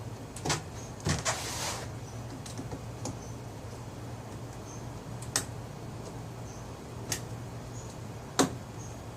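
Knife scoring a molded plastic part: a short scraping stroke about a second in and scattered sharp clicks, over a steady low hum.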